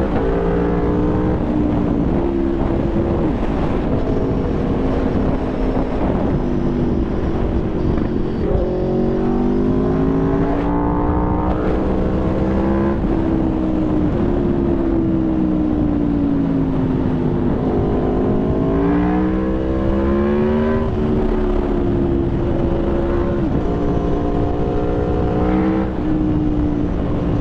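Aprilia Tuono V4 motorcycle's V4 engine under way, its pitch rising as it accelerates and falling back off the throttle several times.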